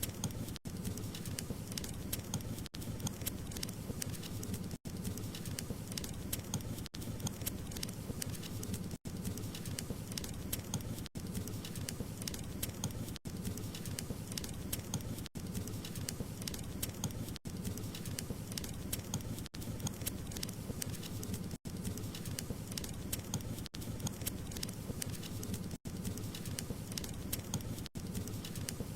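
Burning wood fire crackling, with many small pops over a steady low rumble and hiss. A very brief dropout breaks the sound about every two seconds.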